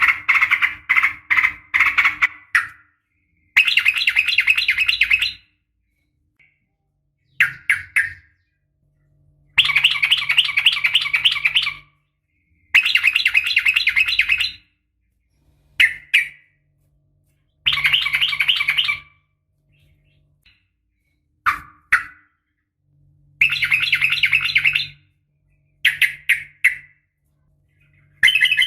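Yellow-vented bulbul (trucukan) singing in rapid rattling phrases of quickly repeated notes, each phrase lasting up to about two and a half seconds, coming again and again with short silent gaps between.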